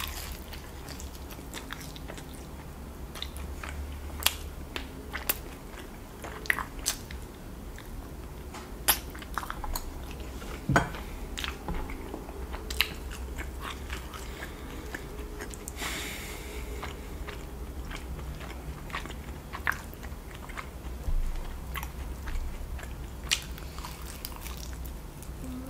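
A person chewing and biting into sauce-covered rotisserie chicken close to the microphone, with sharp little clicks and crunches scattered throughout.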